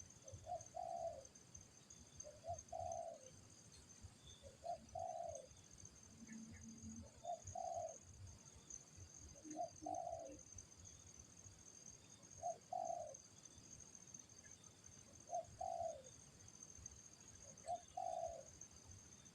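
Spotted dove (tekukur) cooing: the same short call, a brief lead note and then a longer one, repeated eight times about every two and a half seconds. A faint steady high-pitched drone runs underneath.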